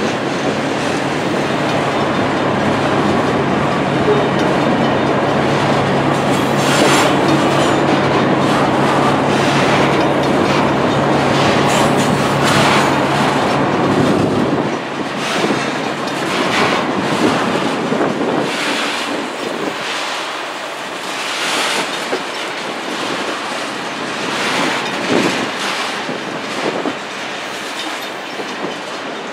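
Freight train of loaded tank cars rolling past close by: a steady rumble of steel wheels on rail with repeated clicking of the wheels. A low hum under it drops away about halfway through, and the sound gets a little quieter after that.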